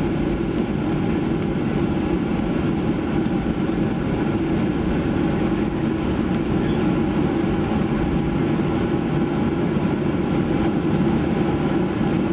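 Steady low cabin rumble inside a Boeing 737-900ER taxiing after landing, its engines at idle.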